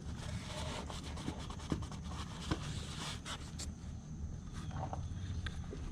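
A rag rubbing and wiping around a freshly fitted oil filter, with a few small clicks and knocks.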